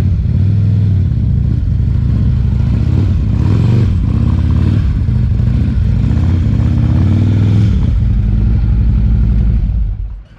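Harley-Davidson motorcycle's V-twin engine running, revving up a little twice, then shut off near the end.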